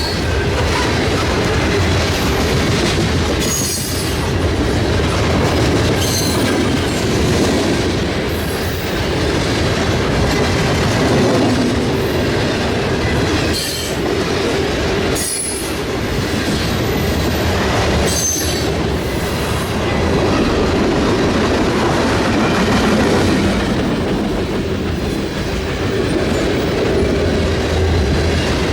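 Freight train cars rolling past: a steady wheel-on-rail rumble with clickety-clack, and several brief high-pitched wheel squeals.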